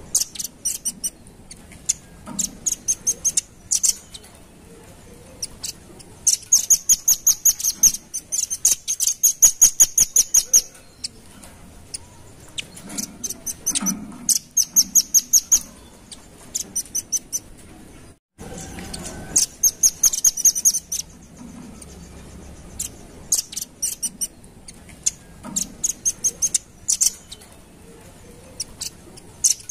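Velvet-fronted nuthatch calling: rapid trains of sharp, very high chips, each run lasting a second or two and repeated over and over, with a short break about 18 seconds in.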